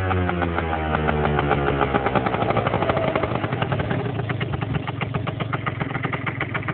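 Yamaha Aerox 50cc two-stroke scooter engine with a Gianelli Extra chrome exhaust, falling in pitch as it drops back from a rev over the first few seconds, then settling into an idle with a rapid, even pulse.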